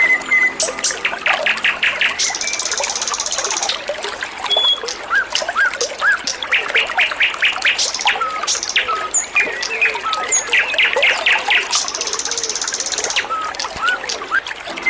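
A small songbird calling and singing, short whistled chirps mixed with fast rattling note series and a high buzzy trill, over a steady trickle of running water. The same stretch of song comes round again about ten seconds later, as in a looped training track.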